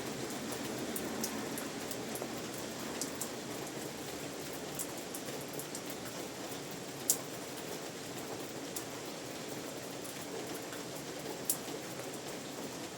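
Steady rain falling, with a continuous patter and scattered sharper drops striking nearby, two of them louder, about seven and eleven and a half seconds in.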